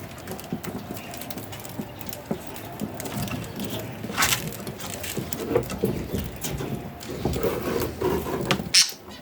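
Pet budgerigars scrabbling and pecking, a run of small clicks and scratchy patter, with two brief sharper sounds about four and nine seconds in.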